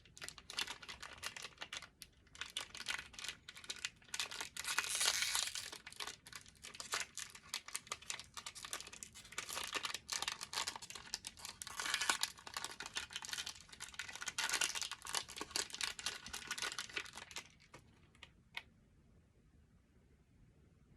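Plastic wrapper of a chocolate bar crinkling and tearing as it is opened by hand, in irregular rustling bursts that stop about three quarters of the way through, followed by a single click.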